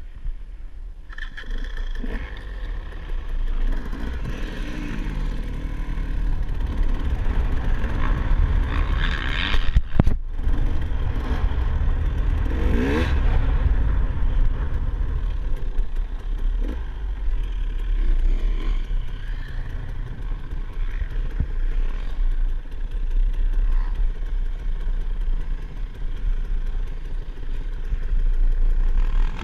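Motocross dirt bike engine running and revving, with a rising rev about halfway through, over a heavy low rumble.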